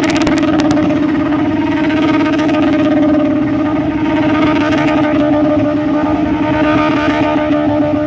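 Motorcycle engine held at steady high revs, one even, unwavering pitch throughout.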